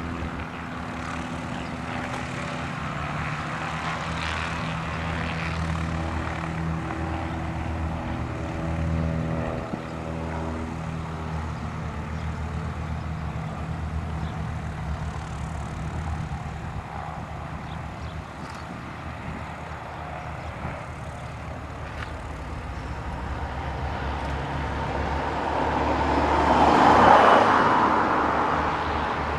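Piston engine of a light propeller aircraft running with a steady drone, swelling to a loud pass near the end as the plane goes by close, then starting to fade.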